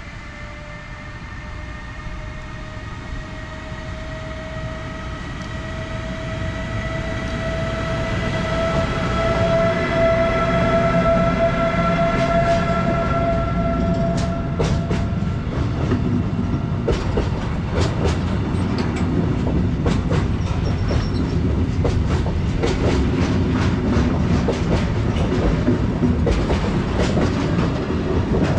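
Freight train passing. A whine from the locomotive grows louder and rises slowly in pitch over the first half. The wagons' wheels then clatter over the rail joints in a rapid stream of clicks over a low rumble.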